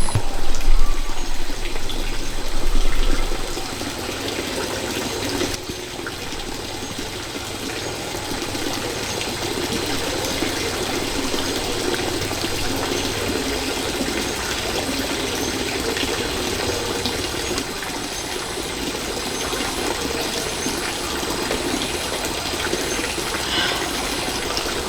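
Water running steadily, like a stream flowing, with a louder low rumble during the first three or four seconds.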